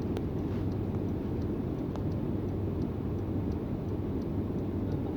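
Steady low rumble of an idling vehicle engine, with a few faint ticks over it.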